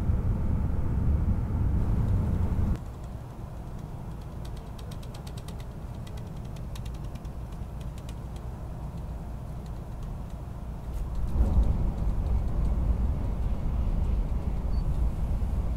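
Low rumble of a Shinkansen train heard from inside the Green car. It drops abruptly to a quieter hum about three seconds in, with faint rapid ticking, then swells again about eleven seconds in.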